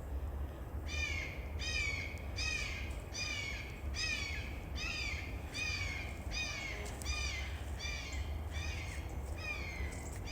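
A hawk calling over and over, a long series of short, downward-slurring screams at about two calls a second, starting about a second in.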